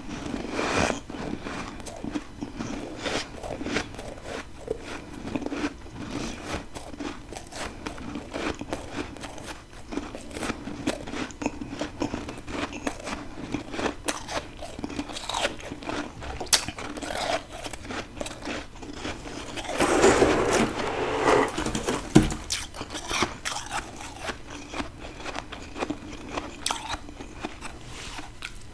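A person biting and chewing freezer frost ice, a steady run of crunches and crackles, with a louder, denser stretch of crunching about twenty seconds in.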